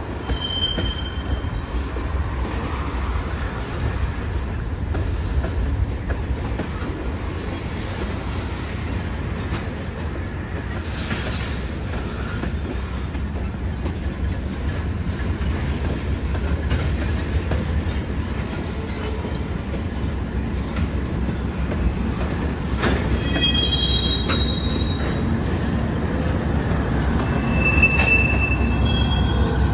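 Freight train with diesel locomotives rolling through a rail yard: a steady rumble of wheels on rail. Several short high-pitched wheel squeals come in the last several seconds, and the sound grows louder as the locomotives draw close.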